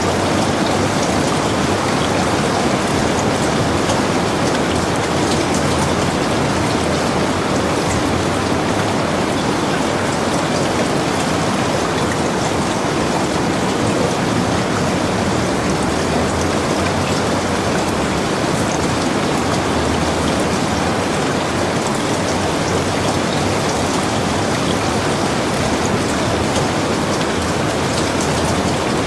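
Heavy rain falling steadily, an even rushing hiss with fine scattered drop ticks.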